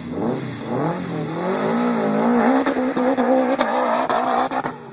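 Subaru Impreza WRX STi's turbocharged flat-four boxer engine revving high, its pitch climbing and then wavering up and down, with sharp pops through the second half before it drops away near the end.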